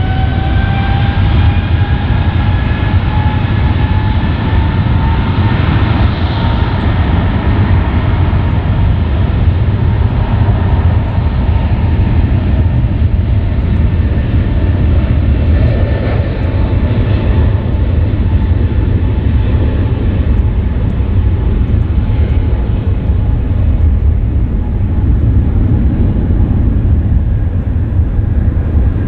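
Boeing 777-200ER's Pratt & Whitney PW4000 twin jet engines at takeoff thrust as the airliner takes off: a loud, steady rumble under a whine that rises in pitch over the first several seconds and then holds steady.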